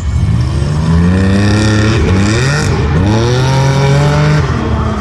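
Side-by-side race UTV engine accelerating hard, its pitch climbing. The pitch dips briefly about halfway through, climbs again, then falls away near the end.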